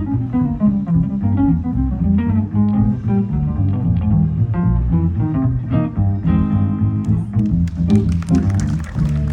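Jazz guitar and double bass playing an instrumental passage of a slow ballad: plucked guitar notes and chords over low plucked bass notes. About seven seconds in, a crackling high noise comes in under the music.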